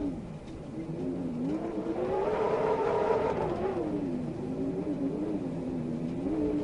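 A motor engine running and changing speed, its pitch dropping about a second in, rising to a peak around the middle, falling again, then rising near the end, like a vehicle revving or accelerating and easing off. It sits over a steady faint hiss.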